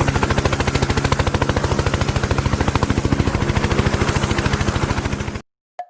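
A rapid, even rattle of pulses, about a dozen a second, like machine-gun fire, that cuts off abruptly about five seconds in. A single hollow knock follows near the end.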